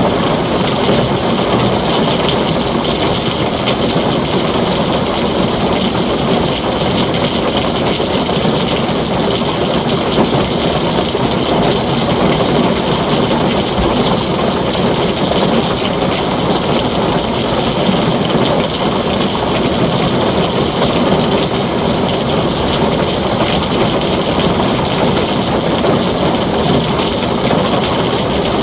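Heavy rain falling on a tin roof: a dense, steady downpour hiss with no thunder standing out.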